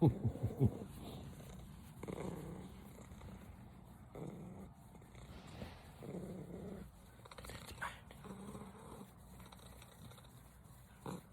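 Domestic cat purring close up, the purr swelling and fading about every two seconds with its breathing, uneven in a way its owner likens to a misfire. A few sharp clicks come in the first second.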